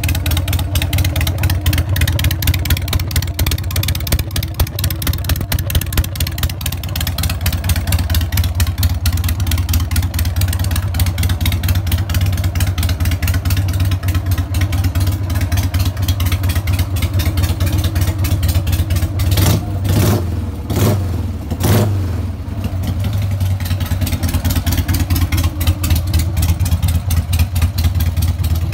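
Harley-Davidson XL883 Sportster's air-cooled V-twin running through aftermarket exhausts with an even, pulsing idle. About two-thirds of the way through, the throttle is blipped three times in quick succession, and the engine then settles back to idle.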